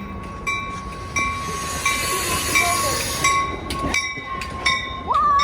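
Passenger train rolling through a grade crossing, with the crossing bell ringing in a steady rhythm about once every two-thirds of a second. A burst of hiss rises over it in the middle.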